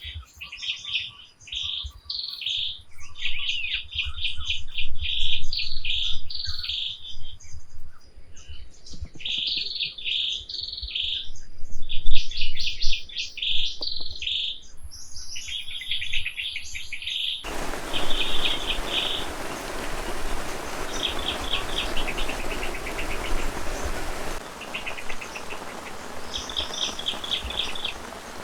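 Birds calling in short, repeated chirping phrases. About two-thirds of the way through, a steady hiss of rain starts suddenly, and the birds keep calling over it.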